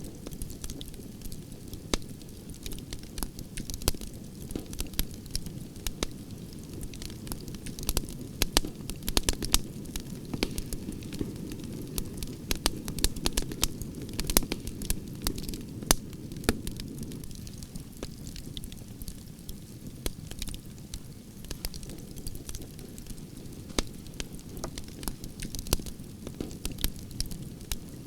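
Campfire of burning branches crackling: frequent sharp pops and snaps over a low, steady rumble of flames, the pops coming thickest in the middle stretch.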